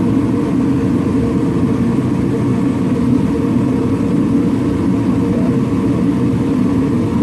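A motor running steadily at an even speed, a loud, unchanging drone with a fast, even pulse.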